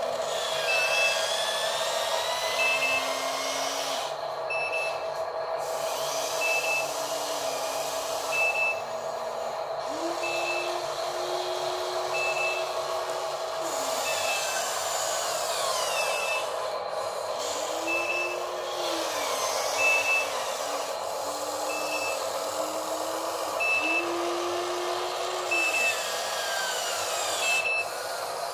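Radio-controlled model dump truck reversing: a high reversing beep sounds about every two seconds over the whine of its electric motors, which rises and falls as it drives.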